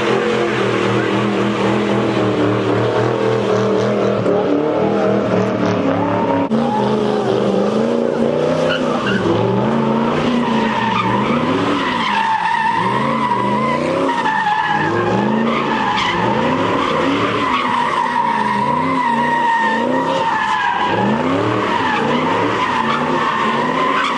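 A Ford Mustang's engine and tires: the car is spun in donuts, tires squealing. The engine first holds a steady note. A few seconds in, its revs start rising and falling over and over, about once a second, under a steady high tire squeal.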